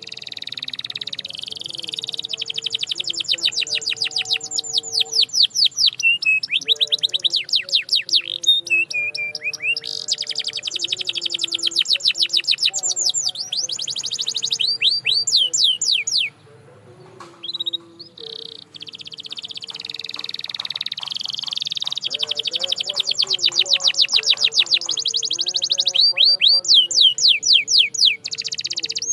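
Domestic canary singing a long song of fast rolling trills and runs of quick repeated notes, breaking off briefly about halfway through before starting again.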